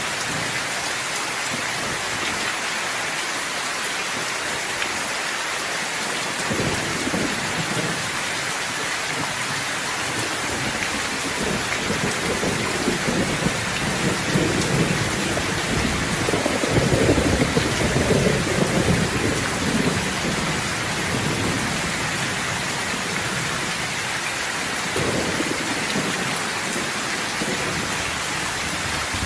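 Steady heavy rain hissing, with rolling thunder rumbling in low: a rumble builds from about six seconds in, is loudest just past the middle, and another rolls in near the end.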